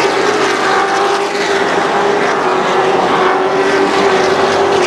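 A pack of Thunder Truck race trucks running at speed, several engines at once making a loud, steady drone.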